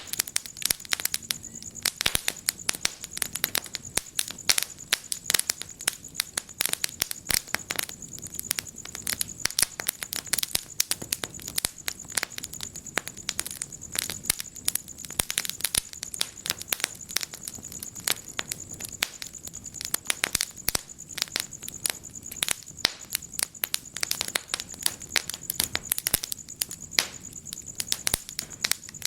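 Wood fire crackling in a fireplace: dense, irregular sharp pops and snaps over a soft hiss.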